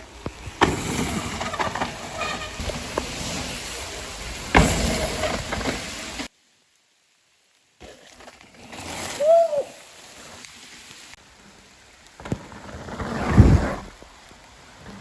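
Mountain bike riding a wet trail in heavy rain: rain and wind buffeting the helmet camera's microphone, with tyre rumble and knocks from the bike. About six seconds in the sound cuts to dead silence for a second and a half, then resumes quieter, with a loud thump near the end.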